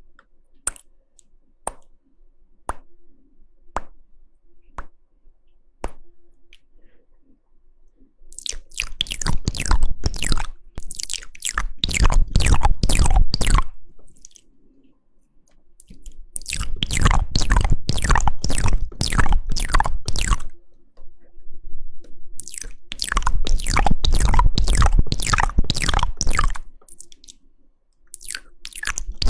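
ASMR mouth sounds close to the microphone: a person's mouth making single wet clicks spaced under a second apart, then three long runs of rapid wet clicking and smacking, each lasting several seconds.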